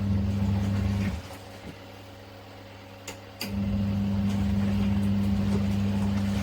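Mini twin-tub washing machine's electric motor humming. It stops about a second in, and a couple of clicks follow. It starts again about three and a half seconds in and runs on steadily.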